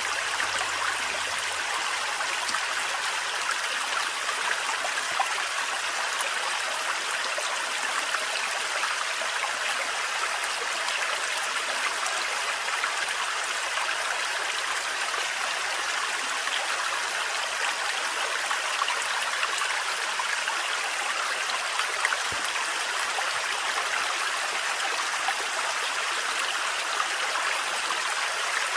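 Water of a thin forest waterfall splashing and running steadily, an even rushing hiss that doesn't change.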